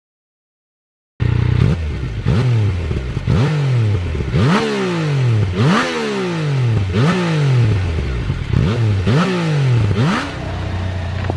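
Yamaha Niken's three-cylinder engine free-revving through a newly fitted Akrapovič titanium exhaust, starting about a second in: about eight sharp throttle blips, roughly one a second, each rising quickly and falling back toward idle.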